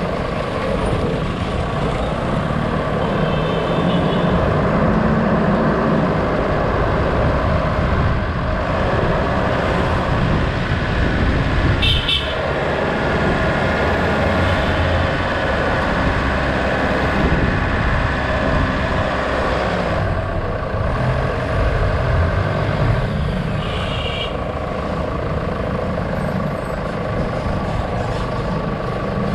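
Vehicle engine and road noise from driving, a steady rumble. Short high-pitched sounds come three times: about three seconds in, near the middle, and near the end.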